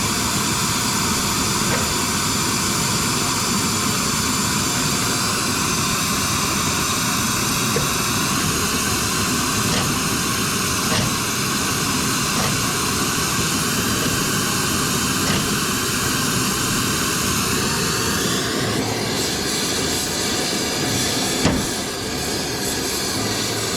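A gas torch running under high pressure with a steady, loud hissing rush. Its tone shifts about 19 seconds in, and there is a single sharp click a couple of seconds later.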